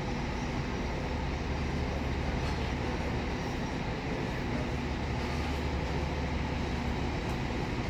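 Scania K500C coach's diesel engine running, a steady low drone with a constant hum and no change in pitch.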